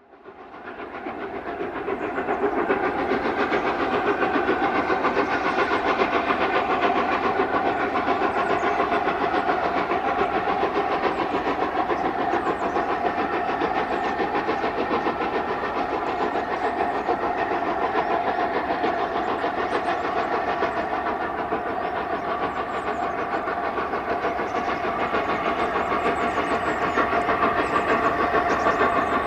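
Steam locomotive working hard up a steep gradient, building over the first couple of seconds and then running steadily, with a steady whistle-like tone running through it.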